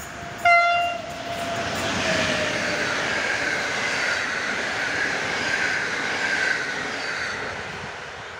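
An EP07 electric locomotive gives a short, loud horn blast about half a second in. The passenger train then rolls past, its wheels running steadily on the rails with a faint high wheel whine, easing off near the end.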